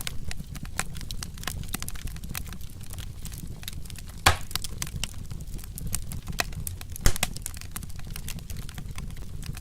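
Log fire crackling steadily with many small sharp snaps over a low rumble, and two louder pops, about four and seven seconds in.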